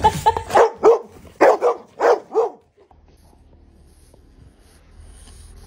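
A dog barking: a quick run of short barks, then three longer ones, stopping about two and a half seconds in. A faint low hum follows.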